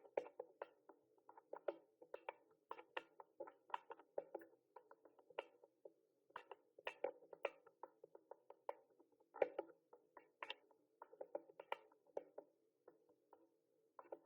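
Typing on a mechanical keyboard: irregular quick keystroke clicks, several a second, with brief pauses in between.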